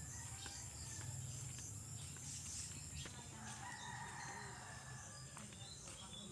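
A rooster crowing faintly once, about three and a half seconds in, lasting under two seconds, over the steady high chirring of insects.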